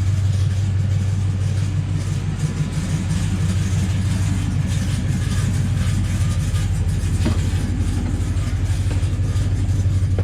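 Truck engine running steadily at an even, unchanging speed.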